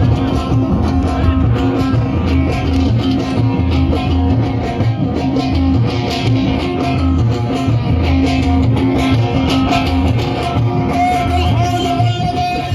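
Loud live band music with a steady, pulsing bass beat and a melody played on a plucked string instrument, with some singing.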